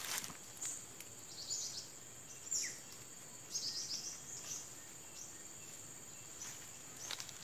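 Small birds giving short high chirps in a few brief series, one a quick downward sweep, over a steady high-pitched insect drone.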